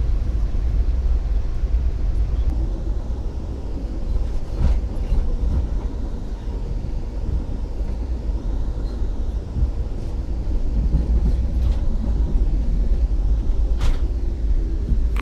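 Steady low rumble of a passenger train running along the track, with a few sharp clicks or knocks now and then.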